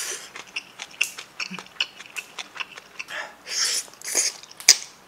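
Close-miked eating of braised monkfish with bean sprouts: a run of small wet clicks and crunches from chewing. About three and a half seconds in comes a short slurp as bean sprouts are sucked in, and near the end a sharp click.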